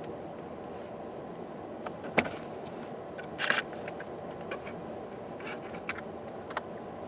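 Steady low rumble of a vehicle engine running, with a sharp click about two seconds in, a short rattle a second later and a few lighter clicks after.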